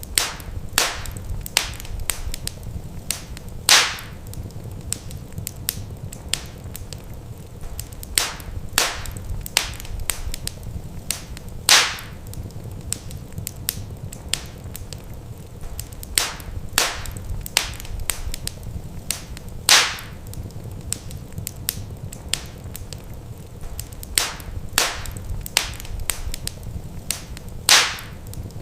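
Wood fire crackling in a fireplace: irregular sharp pops and snaps, with a louder pop about every eight seconds, over a steady low rumble.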